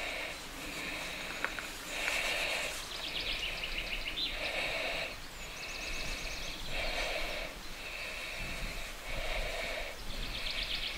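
Outdoor ambience with birds calling: a short call repeats every second or two, and quick high trills come in now and then.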